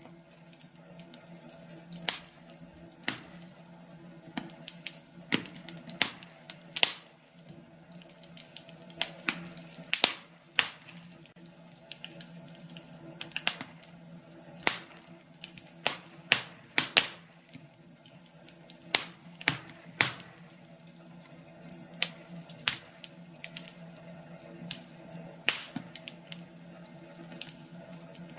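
Burning wood crackling in a fireplace: irregular sharp pops and snaps, some much louder than others, over a steady low rushing of the fire.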